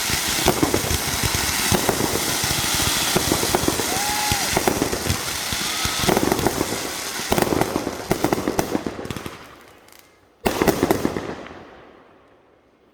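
Fireworks going off in a dense crackling barrage of rapid pops, dying away about ten seconds in, then one more short crackling burst that fades out.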